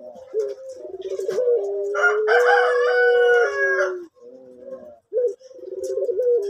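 Male orange puter pelung, a domestic turtle dove, cooing in long, drawn-out low notes with a short trill, pausing briefly about four seconds in and then starting again. A louder, brighter call from another bird overlaps the cooing from about two to four seconds in.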